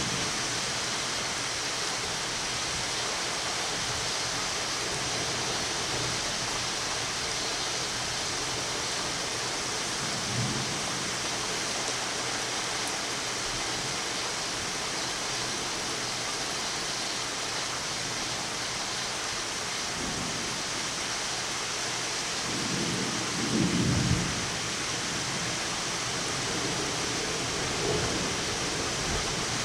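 Heavy rain falling steadily in a thunderstorm, with a low rumble of thunder swelling about three-quarters of the way through and another starting to build right at the end.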